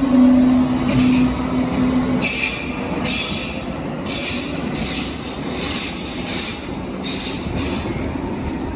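Berlin U-Bahn large-profile train running, with a steady motor hum that fades out about two seconds in. It is followed by a string of short high-pitched hissing bursts from the wheels on the rails, roughly one every half second to second, over a low running rumble.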